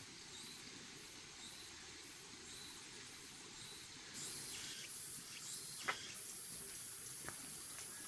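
Insects chirping in a steady high-pitched pulse, about two to three pulses a second. About four seconds in, a louder steady high hiss joins them, and there is a single sharp click near six seconds.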